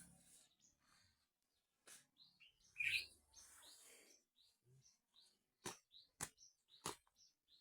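Faint bird chirps, scattered short calls, with three sharp clicks in the last couple of seconds.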